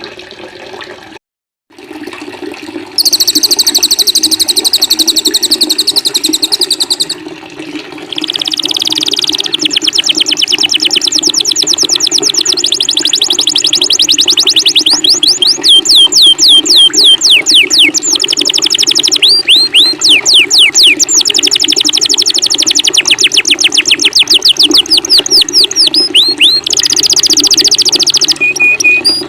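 A mix of songbird recordings (canary, cililin and kapas tembak) over a steady running-water sound. The birds sing long, fast trills and rapid runs of sharp, falling notes. The sound cuts out for a moment about a second and a half in.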